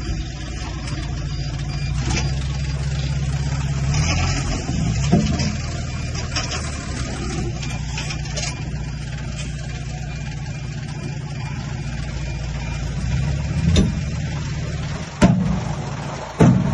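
Heavy-equipment diesel engine running steadily, its pitch and load shifting several times, with two sharp loud clanks near the end.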